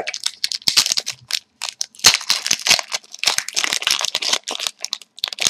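Trading-card packs and cards being handled: irregular crinkling of foil wrappers and quick snapping clicks as cards are pulled and flicked.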